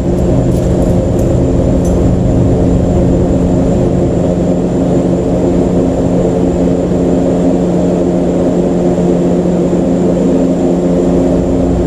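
A motor or engine running steadily at constant speed, a loud even drone with a few faint clicks in the first two seconds.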